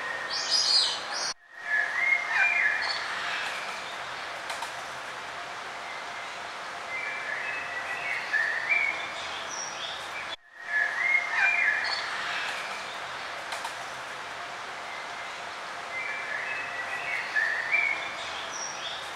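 Songbirds chirping and trilling over a steady outdoor hiss. The sound drops out briefly about a second in and again near the middle, and the same stretch of birdsong repeats after each gap, as in a looped recording.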